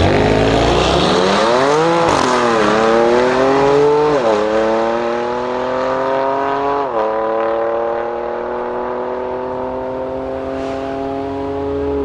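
Two tuned performance cars, a BMW M3 F80 twin-turbo straight-six with a Milltek exhaust and a Brabus Mercedes-AMG E63 S twin-turbo V8, accelerating hard from a standing start side by side. The engines climb in pitch, drop at upshifts about two, four and seven seconds in, and fade as the cars pull away.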